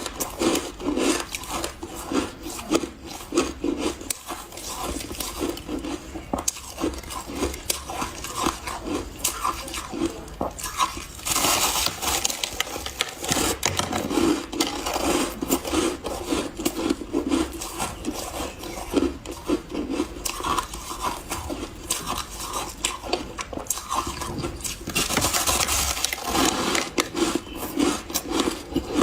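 Refrozen powdery ice being bitten and chewed close to the microphone: continuous soft, crackly crunching, with louder bursts about twelve seconds in and again near the end.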